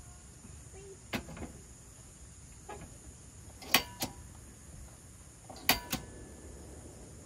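A handful of sharp clicks and knocks, some in quick pairs, the loudest about halfway through, over a faint steady hiss.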